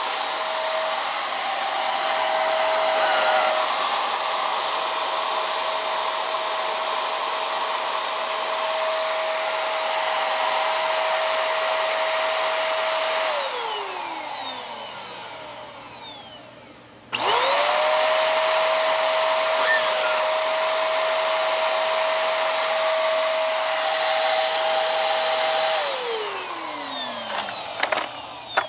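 Hoover PowerDrive Pet bagless vacuum cleaner running with a steady motor whine, then switched off about halfway through, its pitch falling as the motor winds down. It is switched back on a few seconds later, rising quickly to a steady run, and switched off again near the end, winding down once more.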